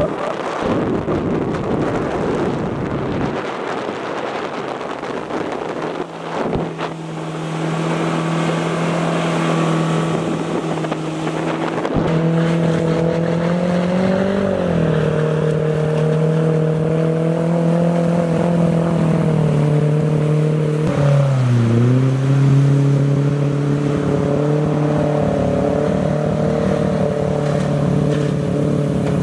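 Mercury 60/40 jet outboard driving the boat under way: a steady drone that gets louder about twelve seconds in, rises in pitch briefly, then dips and recovers about three-quarters of the way through. Wind rushes on the microphone throughout.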